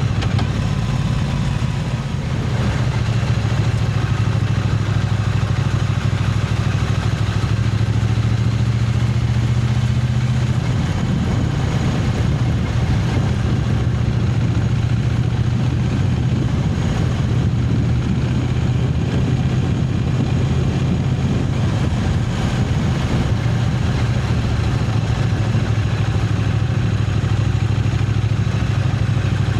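Triumph Speed Twin 900's parallel-twin engine running steadily with little change in pitch.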